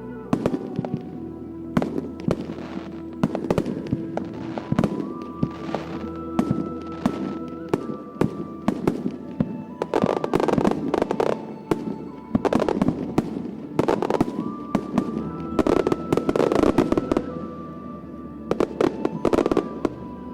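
Fireworks bursting overhead, many sharp reports in quick succession, with dense volleys about halfway through and again toward the end. Music with long held notes plays underneath.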